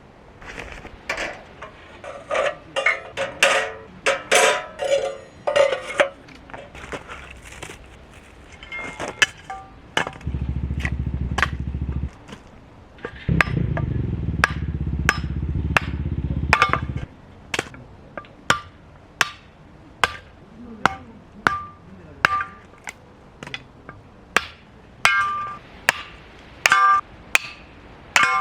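Hammer driving metal tent pegs: a steady run of sharp strikes, about one and a half a second, each with a short metallic ring, beginning a little past halfway. Before it, a few seconds of mixed clatter and a low rumble.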